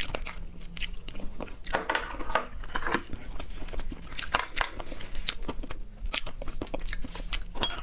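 Close-miked chewing and biting of seafood: irregular wet mouth clicks and crunches.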